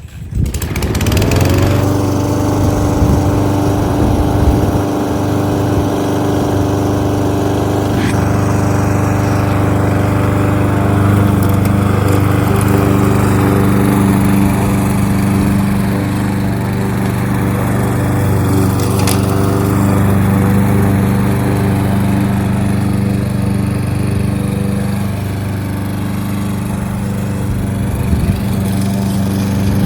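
Kohler XT-675 single-cylinder lawnmower engine starting up, revving up within about a second, then running steadily at speed.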